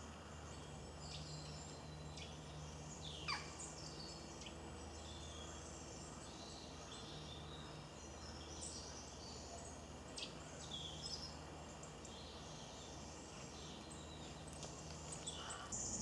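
Faint birdsong: scattered short, high chirps and calls, with one quick call sweeping down in pitch about three seconds in, the loudest sound, over a steady low hum.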